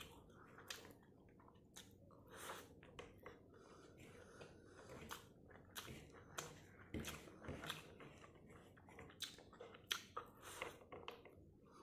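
Faint close-up chewing of a mouthful of rice and crisp fried small fish eaten by hand, with irregular soft crunches and wet mouth clicks.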